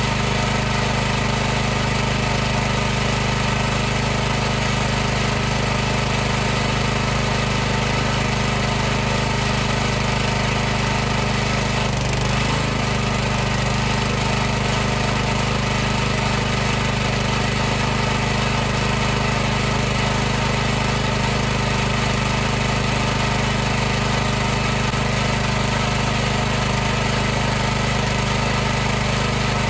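High-pressure washer running steadily: an unchanging motor-and-pump drone with a hiss of noise over it.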